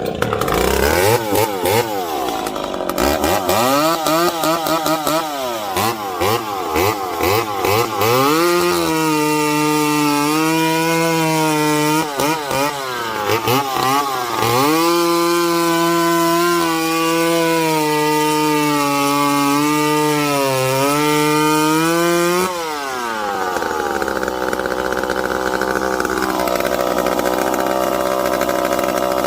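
Pro Mac 700 two-stroke chainsaw firing up and being revved up and down for about eight seconds. It then holds a steady high speed with a few brief dips, and drops back to a lower, steady speed near the end. The saw has just been fuelled and its carburettor still needs adjusting.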